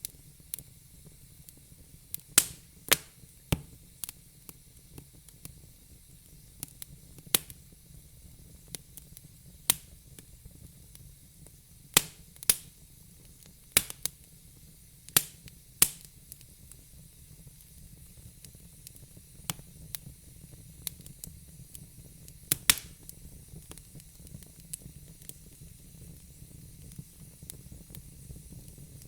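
Fire crackling: irregular sharp pops and snaps over a faint steady hiss, busiest in the first half and thinning out toward the end.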